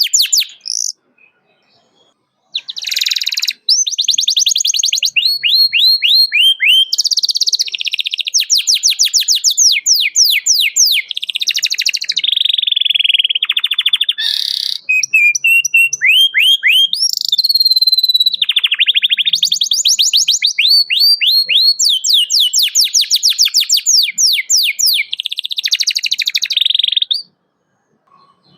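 Domestic canary singing in full voice: long, fast song of rapid trills and strings of quick downward-sweeping chirps, phrase after phrase. It starts about two and a half seconds in after a brief pause and stops shortly before the end.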